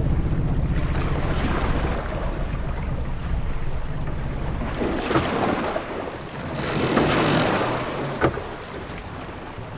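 Sailing-ship-at-sea ambience: a steady low wind rumble with waves washing against the hull, swelling up twice in the second half. A single short knock of the ship's timbers sounds near the end.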